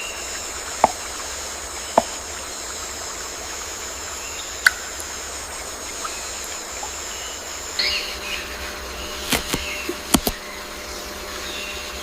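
Rainforest ambience: a steady high insect drone in several bands that changes about eight seconds in. About six sharp clicks or snaps stand out, the loudest two near the start and one a little before five seconds.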